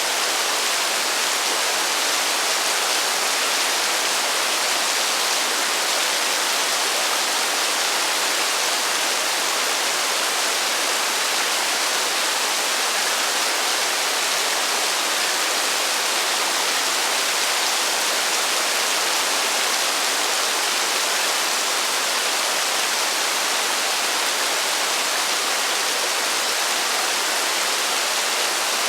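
Heavy rain falling steadily: an even, unbroken hiss with no thunder and no single drops standing out.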